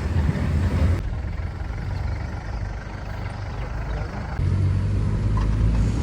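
Vehicle engine running with a low rumble while driving. Its sound changes abruptly about a second in and again about four seconds in.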